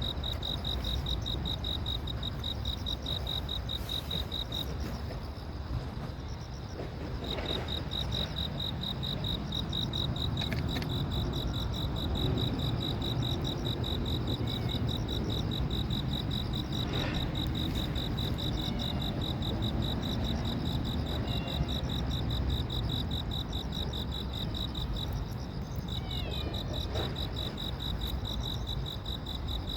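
Insect trilling: a fast, even pulsed chirp at one high pitch that breaks off for a few seconds about five seconds in and again briefly near the end, over a low steady background rumble.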